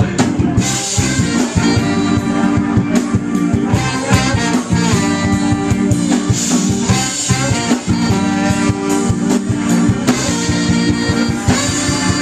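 Instrumental passage of a band song with horns over a steady drum beat.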